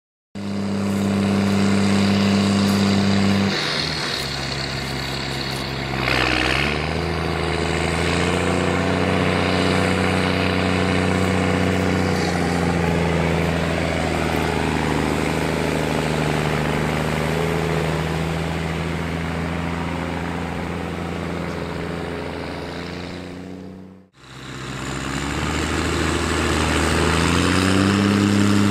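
New Holland T6030 tractor's diesel engine with an open straight steel exhaust, working under load. Engine speed drops about three seconds in, climbs back over the next few seconds and holds steady. The sound cuts off abruptly near the end, then returns and revs up.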